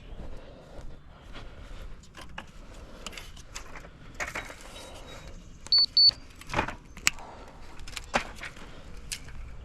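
Irregular knocks and scrapes, with two short high-pitched electronic beeps about two-thirds of the way through.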